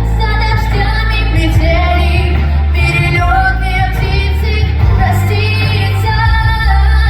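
A young girl singing a song over a backing track with a steady bass line and beat.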